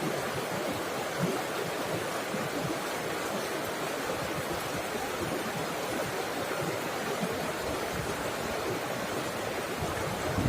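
Falling water running steadily: a continuous, even rush of a waterfall or cascading stream.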